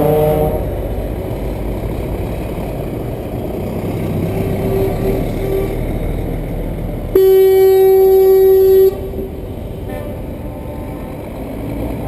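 Truck horn sounding one loud, steady blast of under two seconds about seven seconds in, over the low rumble of truck engines in a convoy. A fainter horn toots briefly about halfway through.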